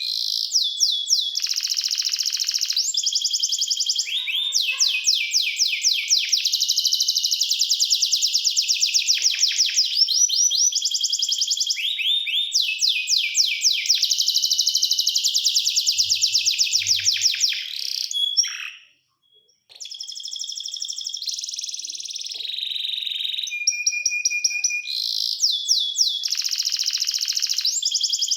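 Domestic canary singing a long, continuous song of fast trills and rolling repeated notes, with a brief break about two-thirds through and a held steady note near the end.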